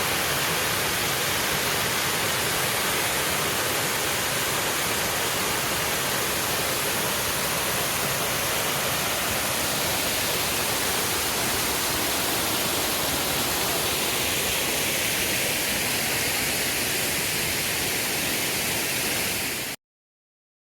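Waterfall rushing, a steady even noise that cuts off suddenly near the end.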